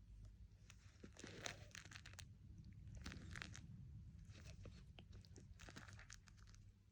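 Faint crunching and crackling in short clusters, about every second or so, over a low steady hum.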